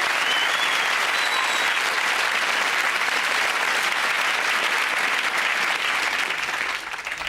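Studio audience applauding steadily, dying down near the end.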